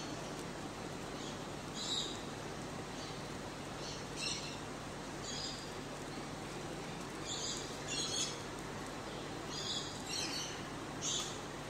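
Small birds chirping: short, high chirps at irregular intervals, a few every couple of seconds, over a steady low hum.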